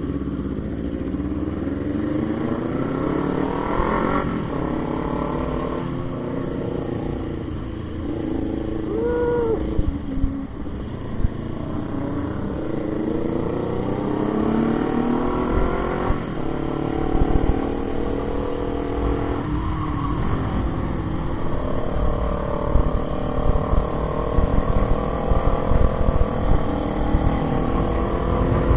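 Motorcycle engine under way, its pitch climbing and dropping repeatedly as it accelerates and shifts through the gears. Heavy wind rumble on the microphone.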